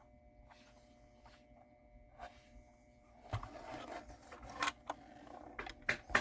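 Faint for about three seconds, then a run of light clicks, knocks and rustles of clamps and tools being handled on a workbench, with a few sharper clicks near the end.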